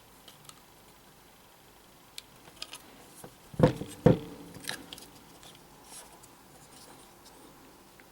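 Small parts and hand tools being handled on a workbench: scattered light clicks and ticks, with two sharp knocks about half a second apart around the middle.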